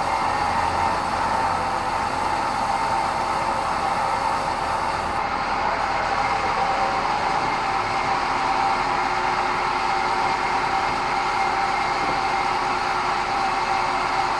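Sawmill bandsaw running steadily, a continuous machine noise with a steady whine; a fainter, lower tone joins about eight seconds in.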